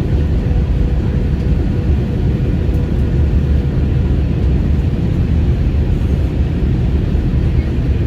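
Airliner cabin noise in flight: a steady low rumble of engines and airflow, with a faint steady hum running through it.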